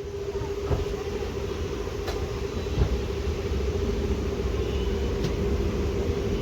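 Steady mechanical hum with a constant mid-pitched tone over a low rumble, growing slightly louder, with a few faint clicks.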